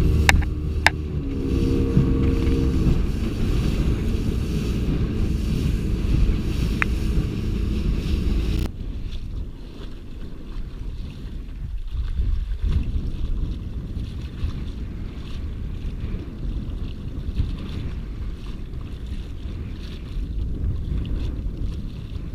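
Gusty wind buffeting the microphone on open water, a low rumble. It is louder over the first third, with a few steady low tones under it, then cuts off suddenly about nine seconds in to a lighter, steadier wind noise.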